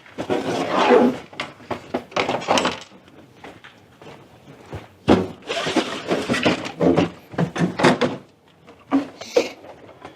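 Rummaging through a garage's stash of parts: irregular clattering with knocks and thunks as hard objects are shifted and dropped, in several bursts with short pauses between.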